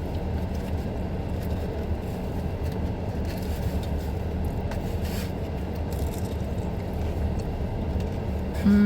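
Steady low engine hum, like a vehicle idling. Near the end a person gives a short 'mmm' that falls in pitch.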